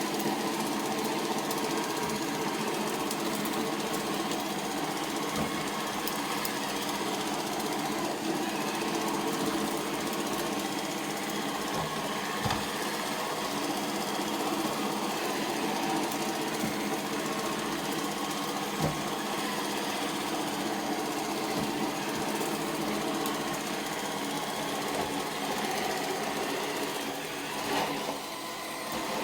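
iRobot Roomba 692 robot vacuum running on the floor: a steady motor and brush hum, broken by a couple of brief knocks.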